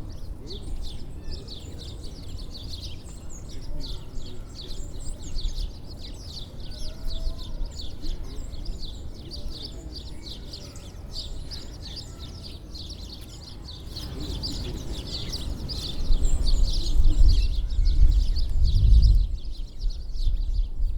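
Many small feeder birds chirping busily, short overlapping chirps. A low rumble runs underneath and grows louder over the last few seconds.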